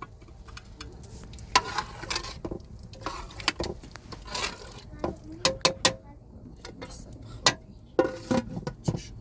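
Metal utensil clinking and scraping against cooking pots and dishes, as in stirring: irregular sharp clinks, some ringing briefly.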